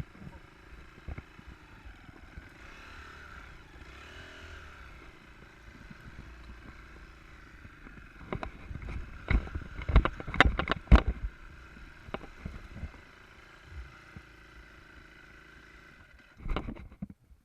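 Enduro motorcycle engine running steadily at low revs, with a cluster of loud knocks and thumps a little past the middle and a few more near the end.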